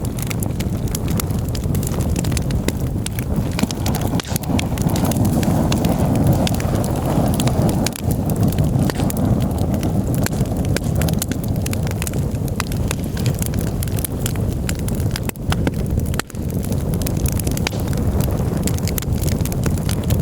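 Campfire burning: frequent sharp crackles and pops of burning wood over a steady low rumble.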